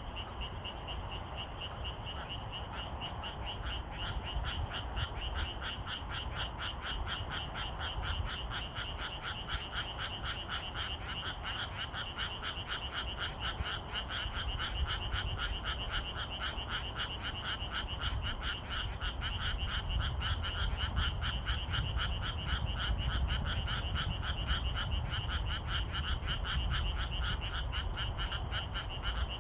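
A chorus of frogs calling at dusk, a dense, continuous run of rapid pulsed croaks, with a low rumble underneath.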